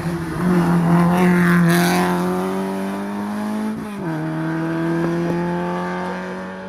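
Ford Escort hill-climb race car engine pulling hard under load, its pitch rising steadily through the gear. About four seconds in there is a quick upshift, and the engine climbs again as the sound eases off slightly toward the end.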